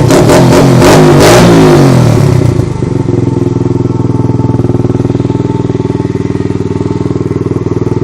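125 cc dirt bike engine, just started on the first kick, revving up and down for about two and a half seconds and then settling into a steady idle.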